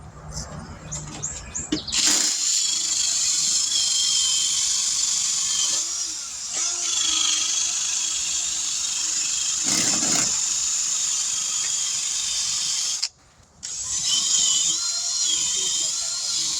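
A handheld power tool running against a steel wheel rim, scouring corrosion off the bead seat so the tire will seal. It starts about two seconds in, runs steadily, and stops briefly about three seconds before the end, then starts again.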